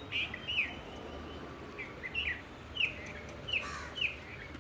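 Small birds chirping: a string of short, falling chirps, about seven in four seconds.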